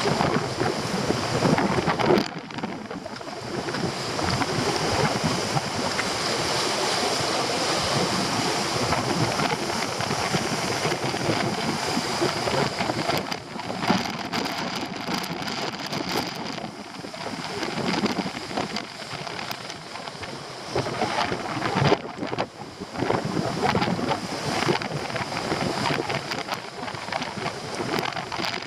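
Storm surf breaking on rocky shore under very strong wind, with wind buffeting the microphone; the noise rises and falls with each surge.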